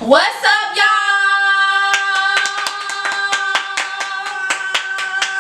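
A woman's voice sings one long held note, sliding up into it, while hands clap quickly and evenly, about four or five claps a second.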